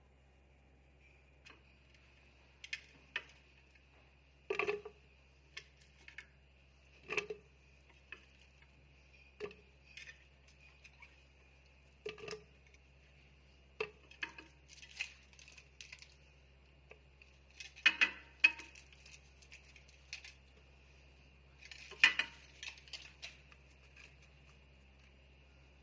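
Kitchen utensils and dishes being handled: irregular knocks and clinks, some with a dull thud, about fifteen separate hits with the loudest clattering about two-thirds through.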